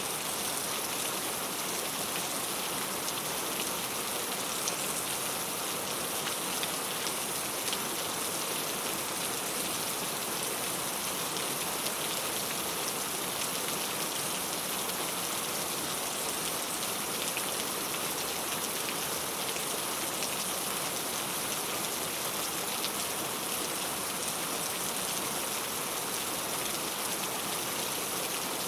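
Steady rain falling on a clay tile roof: an even hiss of drops with a few sharper individual drop ticks.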